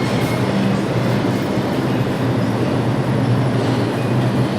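R142 subway train running, a steady noise of wheels on the rails with a low, even hum underneath.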